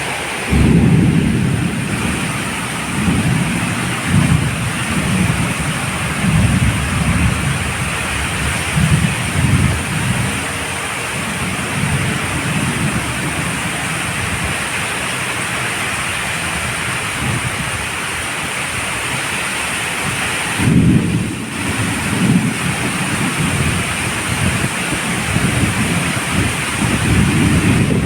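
Steady rain with low rumbling thunder that swells and fades, loudest about a second in and again about three-quarters of the way through.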